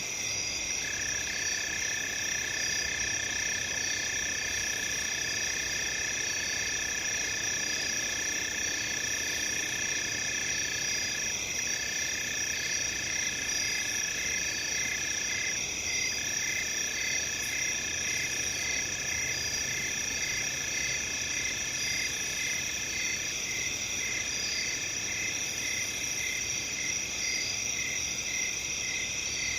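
A night chorus of crickets: several steady high trills overlap, one dropping out briefly now and then, and from about twelve seconds in another chirps in a regular pulse about twice a second.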